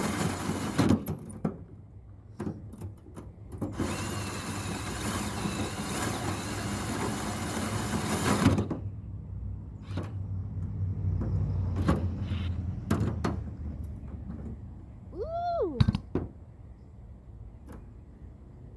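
Cordless drill running in bursts as it bores through a layer of material: a short run, a few brief triggers, then a steady run of about four seconds that stops. After it come a few scattered knocks and a short squeak that rises and falls.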